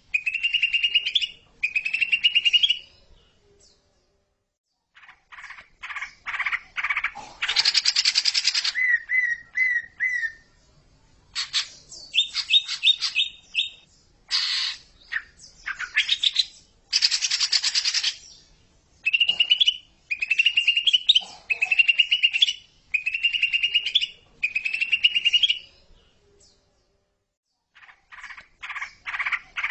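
Cucak ijo (green leafbird) singing: runs of short repeated whistled phrases, fast trilling notes and loud harsh chattering bursts, with brief pauses between the runs.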